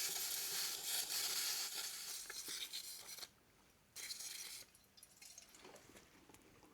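Brake cleaner sprayed from an air-pressurised refillable spray bottle onto a reusable oil filter element, washing the sludge out: a steady hiss for about three seconds, then a shorter second burst about a second later, followed by faint small clicks.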